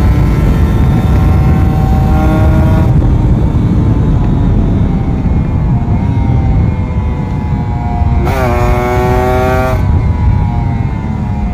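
Kawasaki Ninja RR 150's two-stroke single-cylinder engine running under way. Its pitch climbs, drops off, then rises sharply and holds about 8 seconds in before falling away, over heavy wind rush.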